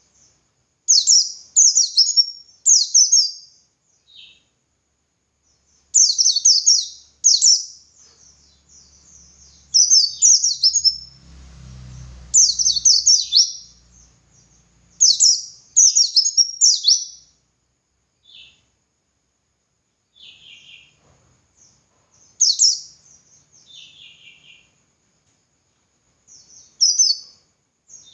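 White-eye (pleci) singing: bursts of rapid, high chirping phrases separated by short pauses.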